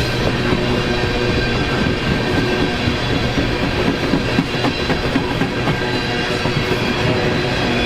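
Train running on the rails, its cars clacking over rail joints, with steady tones running through that carry on unchanged before and after.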